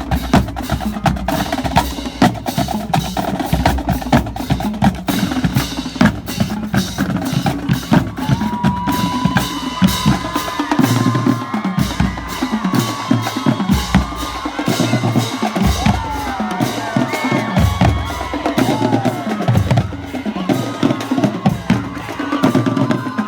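Marching drum line playing: rapid snare-drum and tenor-drum strokes with heavy bass-drum hits, continuous and loud.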